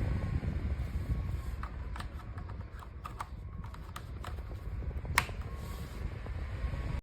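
Portable clip-on battery USB mini fan running, its airflow rushing steadily on the microphone, with several scattered clicks and knocks; the loudest click comes about five seconds in.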